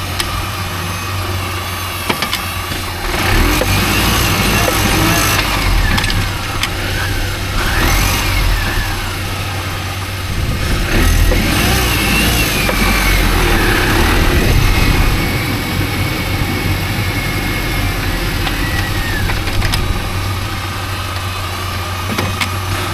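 Mini Cooper S running, with a whine that rises and falls as its speed changes and a few short knocks. The knocking from the front left is typical of a worn driveshaft, which the owner suspects.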